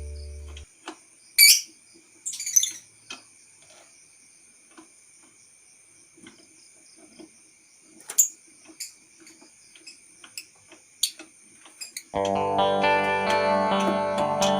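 Scattered small clicks and a few sharp, high chirps from lovebirds in an aviary, over a faint steady high-pitched ringing. Guitar background music comes in near the end.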